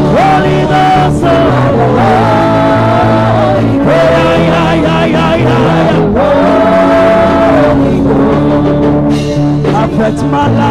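Live gospel worship music: a band playing sustained keyboard chords over bass, with long held sung or vocal notes.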